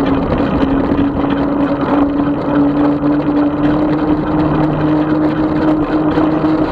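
A 36-volt electric bike's motor whining steadily under riding, its pitch rising slightly, with a lower hum joining about two and a half seconds in, over a constant rush of tyre and wind noise.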